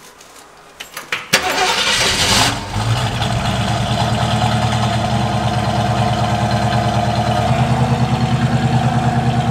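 A 1968 Ford Mustang Fastback's engine: a few clicks, then it starts about a second in, runs up briefly and settles into a steady idle with an even throb.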